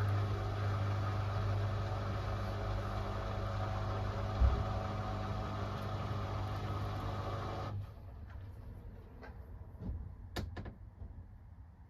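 Hoover Axi 10 kg washing machine at the start of its programme: a steady electric hum with a low thump a little over four seconds in. The hum stops about eight seconds in, and a few quiet clicks follow.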